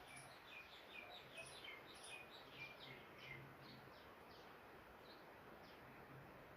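Faint chirping of small birds over low background hiss: many short, high chirps, closely packed for the first few seconds and then sparser.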